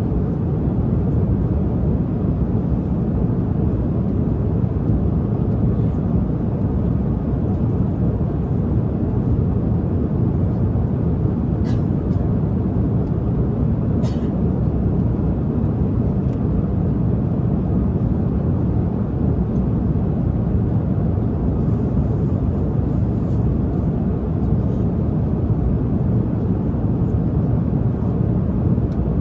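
Steady low drone of an airliner cabin in cruising flight, with a couple of faint clicks about twelve and fourteen seconds in.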